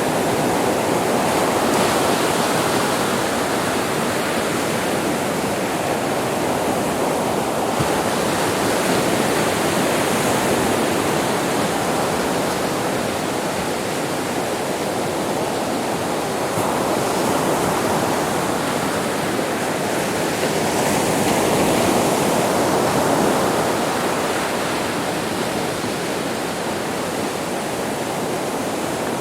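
Sea surf on a beach: a continuous rushing wash of waves that swells a little louder every several seconds.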